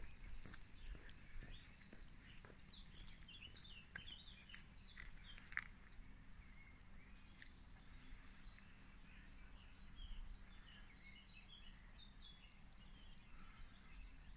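Faint birdsong: quick runs of high chirps in two spells, over a low steady rumble. One sharp click comes about five and a half seconds in.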